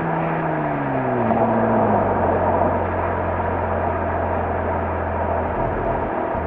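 Exhaust of a Mazda RX-7 FD3S's twin-rotor 13B rotary engine heard close to the stock muffler: the revs fall smoothly over the first two seconds, then settle into a steady low drone as the car cruises.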